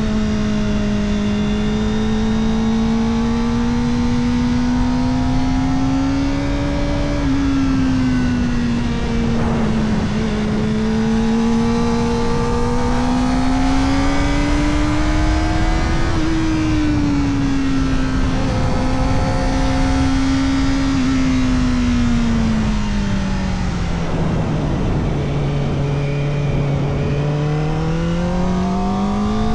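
Kawasaki Ninja ZX-4RR's 399 cc inline-four engine running at high revs through an Arrow Indy Race Evo titanium exhaust with the dB killer fitted, its pitch climbing and dropping with throttle and gear changes. The pitch falls lowest about three quarters through, then rises again near the end.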